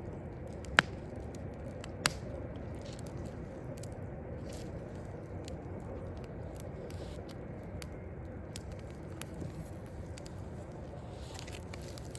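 Burning log fire crackling, with two sharp loud pops about a second apart near the start and faint ticks after, over a steady low rumble of distant city noise.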